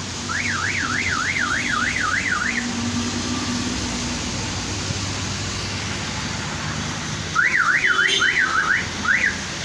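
Car alarm siren warbling rapidly up and down, about three sweeps a second, in two bursts: one at the start and another near the end. Under it runs a steady hiss of heavy rain.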